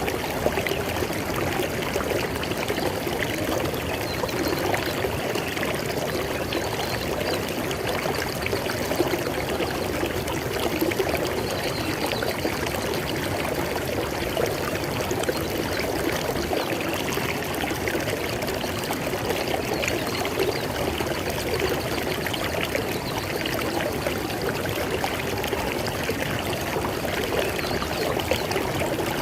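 River water flowing steadily over rocks, a continuous rushing and splashing that holds even throughout.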